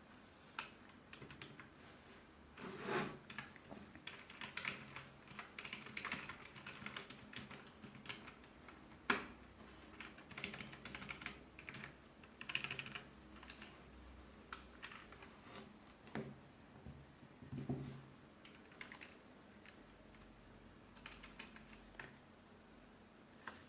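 Typing on a 2.4 GHz wireless ABNT2 office keyboard: irregular key clicks with a few louder strokes in between.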